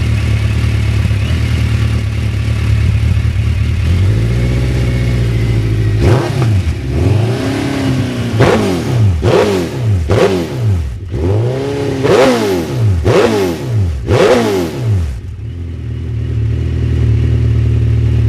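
Suzuki GSX1400's inline-four engine through Yoshimura exhausts idling, then revved in about eight quick throttle blips, each rising and falling in pitch, before settling back to idle near the end.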